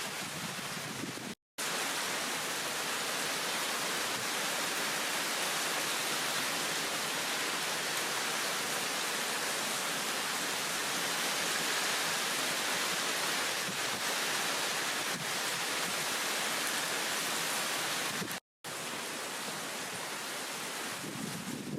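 Heavy downpour of rain, a steady dense hiss. The sound drops out twice for an instant, about a second and a half in and near the end.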